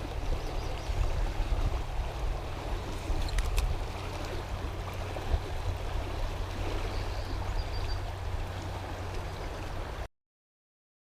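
Flowing river water, a steady rushing with a low rumble. It cuts off abruptly to silence about ten seconds in.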